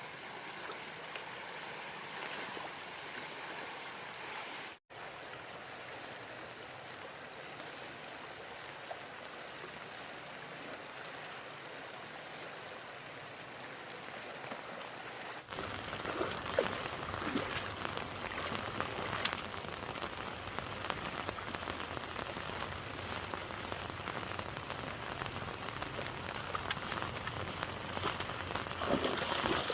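Rain falling steadily. About halfway through it becomes louder, with scattered sharp drips and spatters.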